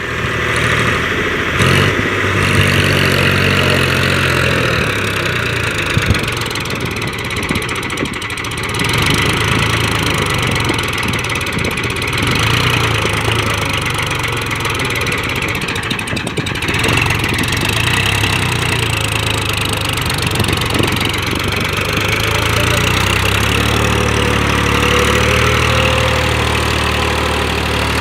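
Tractor diesel engine running under changing throttle, its pitch rising and falling, then settling into a steadier run near the end.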